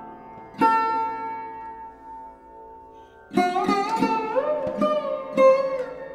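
Instrumental background music on a plucked string instrument over a steady drone. One note rings out and fades early on, then after a few seconds a run of plucked notes follows, several of them sliding up or down in pitch.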